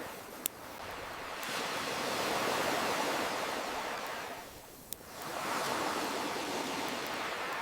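Ocean waves washing in: one surge swells up and ebbs away, and a second builds after it. Two sharp pops from a crackling wood fire, one near the start and one about five seconds in.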